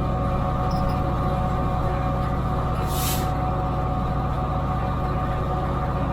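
GP38-2 diesel locomotive's EMD 16-cylinder 645 engine running steadily, heard from inside the cab, with a steady whine over the engine drone. A short hiss of air about three seconds in.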